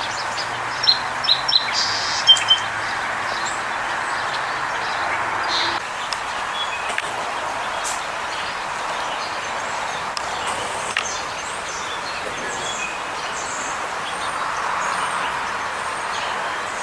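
Birds chirping in short, high calls, several in quick succession in the first three seconds and scattered ones afterwards, over a steady background rush of outdoor noise.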